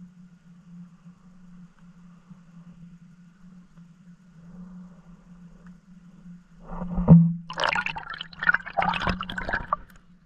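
Water splashing and churning around a camera, loud and ragged for about three seconds starting near the end, over a faint steady low hum.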